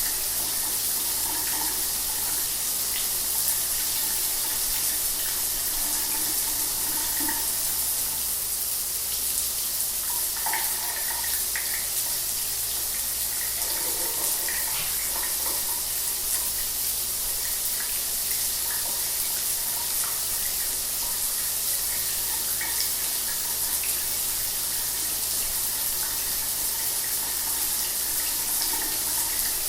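Shower water running: a steady, even hiss.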